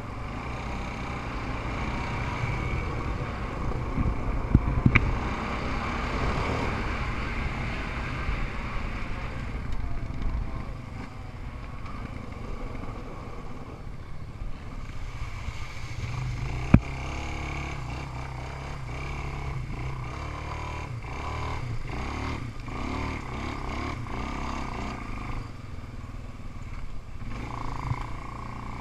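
Off-road engines of ATVs and small dirt bikes running and revving, their pitch and loudness rising and falling as they ride, with a few sharp knocks about four to five seconds in and one more a little past halfway.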